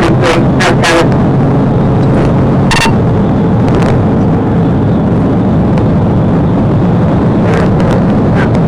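Loud, steady rumble of a police patrol car driving at speed, with road and wind noise, heard from the dashcam, and a few brief clicks in the first second and near the end.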